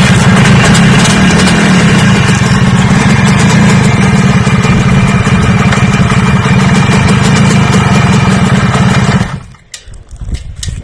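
A motor engine running loud and steady at one speed, then cutting off abruptly about nine seconds in.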